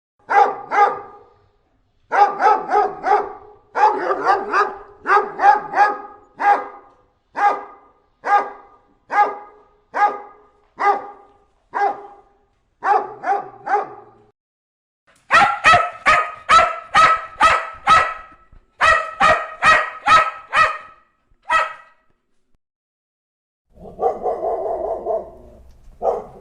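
Dogs barking angrily: repeated barks in short runs of two to four with brief silent gaps. About halfway through comes a sharper, quicker run of barks. Near the end there is a continuous sound of about two seconds, then one more bark.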